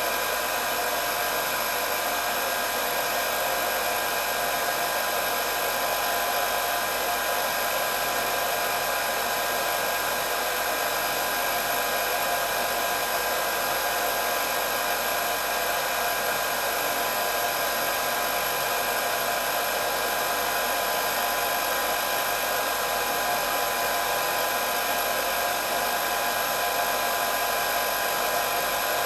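Hair dryer running steadily, a constant airy whir with a few high steady tones from its motor and fan.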